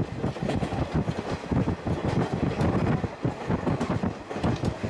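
Old steam-hauled passenger coach rolling along the track: a continuous rumble and rattle from the wheels and car body, heard from inside the coach.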